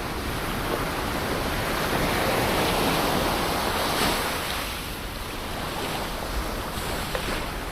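Ocean surf: a wave breaks and washes in, the rush swelling to its loudest about three to four seconds in, then receding.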